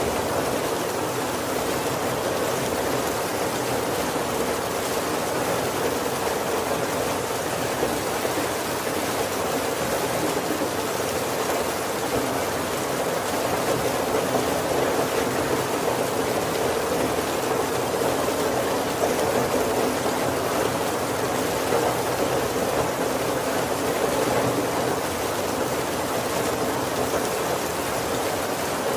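Heavy rain falling steadily on a wooden carriage roof, an even, unbroken patter with no thunder.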